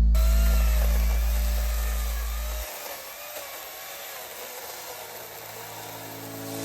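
Power saw running while cutting an apple tree, a whine with a hissing edge whose pitch wavers up and down. A held music chord fades out under it in the first few seconds.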